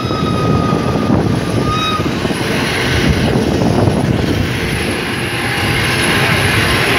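Steady loud rumble and wind noise of a steam-hauled passenger train running at speed, heard from an open coach window. A faint high steady tone fades out about two seconds in, and more hiss comes in after that.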